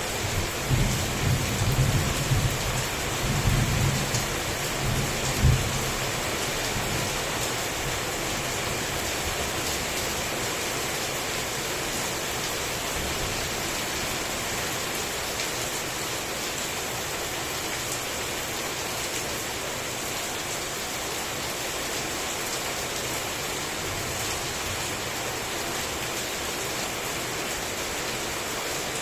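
Heavy rain falling steadily throughout. Thunder rumbles low for the first five or six seconds and ends in a louder clap about five and a half seconds in.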